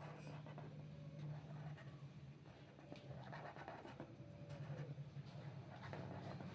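Strokes of a drawing tool scratching across paper, faint and irregular, over a low steady hum.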